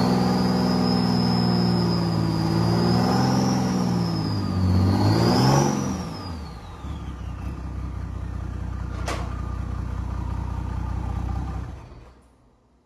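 Mercedes-Benz OM606 straight-six turbo-diesel revving with a high turbo whistle from its big Borg Warner S200SXE turbo that rises and falls with the revs. About six seconds in it drops back to a steady lower note. A single sharp click follows a few seconds later, and the sound fades out near the end.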